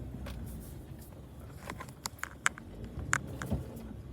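Low steady rumble of a vehicle rolling slowly, with a run of sharp clicks and ticks in the middle.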